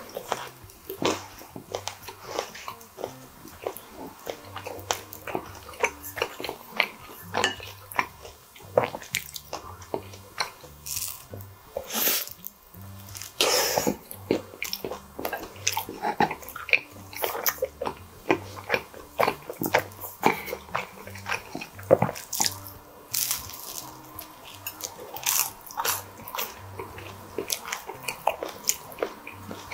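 Close-miked eating of pizza crust and squid ink pasta: bites and chewing with many sharp, crisp crackles, one after another throughout. Faint background music runs underneath.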